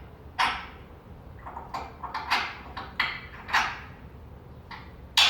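A pet parrot giving a series of about seven short, harsh squawks, irregularly spaced, the last one the loudest.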